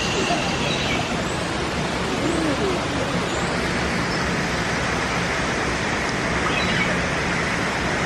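Steady rush of running water, like a small waterfall feeding a fish pond, with faint voices briefly in the background.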